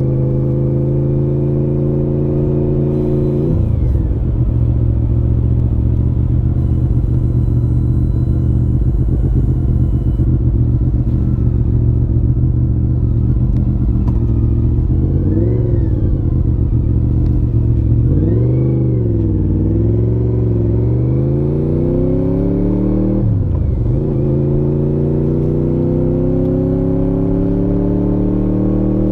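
Honda VFR750F (RC36) V4 engine running through a modified stock muffler. Its pitch climbs steadily, drops sharply, then holds steady. Two quick rises and falls in revs follow about halfway through, then the revs drop again and climb slowly a second time.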